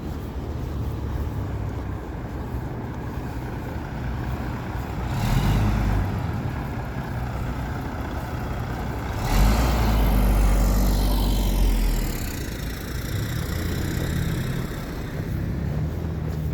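Street traffic running past, with a steady low rumble of engines. A vehicle goes by about five seconds in, and a louder one with a deep engine rumble passes about halfway through.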